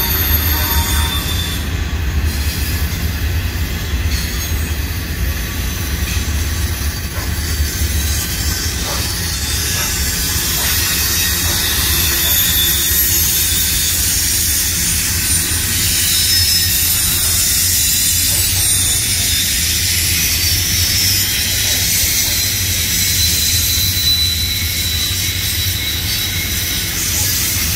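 A freight train's cars rolling past close by: a steady low rumble of steel wheels on rail, with thin high-pitched wheel squeals coming and going over it. The cars are autoracks, then double-stack container well cars.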